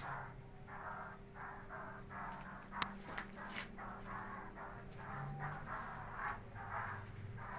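Poksay Hongkong laughingthrushes in a cage giving harsh, scratchy chattering calls, short bursts about twice a second, over a steady low hum.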